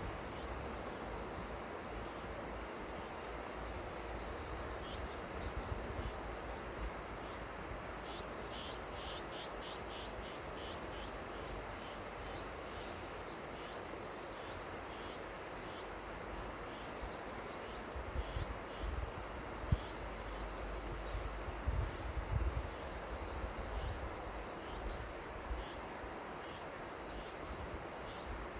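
The Seomjin River flowing: a steady rush of water, with many short high chirps scattered over it and a few bursts of low rumble about two-thirds of the way in.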